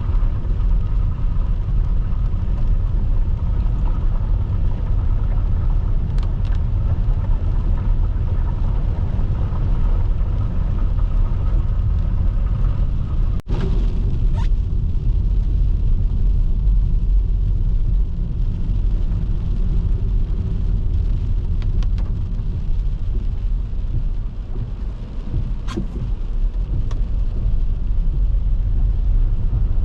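A car driving, heard from inside the cabin: a steady low rumble of engine and tyres, with a few faint ticks and a brief drop in level about halfway through.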